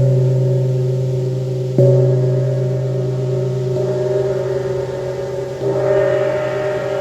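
Wind gong struck with a mallet and ringing on with a deep hum: two firm strokes at the start and about two seconds in, then softer strokes near four and six seconds that swell into a bright shimmer.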